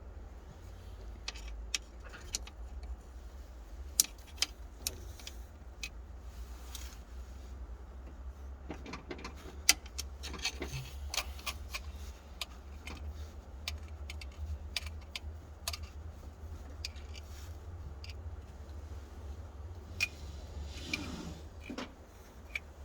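Light metallic clicks and clinks of hand tools being handled, scattered irregularly over a low steady rumble, while the compression gauge is moved between cylinders.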